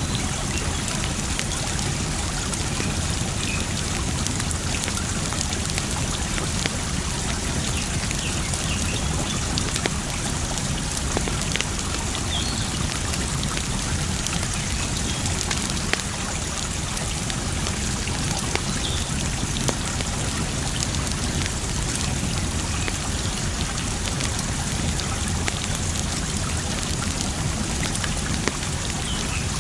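Campfire crackling with scattered small pops over a steady rush of running water.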